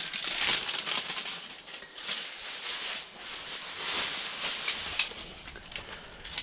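Seasoning shaker being shaken over vegetables: a hissy, high-pitched rattle in repeated uneven swells that fades toward the end.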